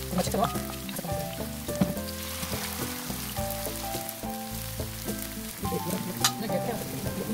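Julienned sweet potato sticks sizzling as they shallow-fry in a little cooking oil in a frying pan, a steady hiss with scattered sharp crackles, one louder crack about six seconds in.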